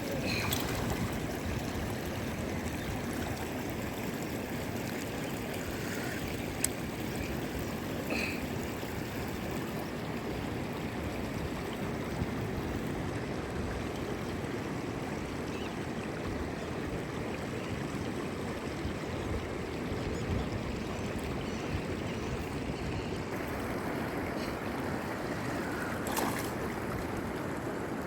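Steady rushing noise of river water, with a few faint short chirps.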